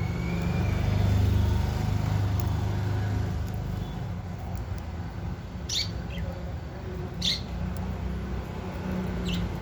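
Budgerigars giving three short, high chirps about six, seven and nine seconds in, over a steady low rumble.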